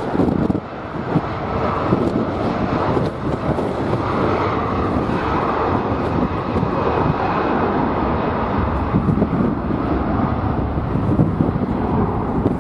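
Jet airliner engine noise mixed with heavy wind buffeting the microphone, a continuous rough rumble with a faint steady whine partway through.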